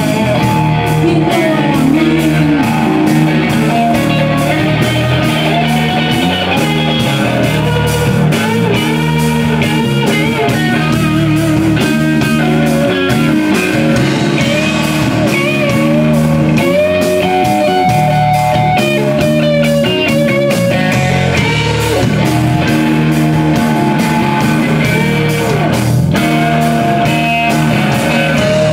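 Electric guitar playing a bluesy psychedelic-rock lead, its notes bending and wavering in pitch, over steady low bass notes and drums.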